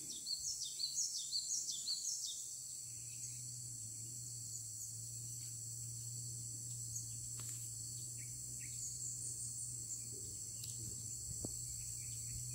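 A quick run of high chirping bird notes during the first two seconds or so, then a few scattered faint chirps. A steady high drone of insects runs underneath.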